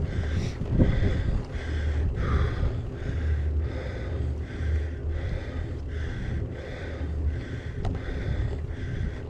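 A cyclist breathing hard in a steady rhythm, about two puffs a second, close to the helmet or chest camera, over a low rumble of wind and riding noise.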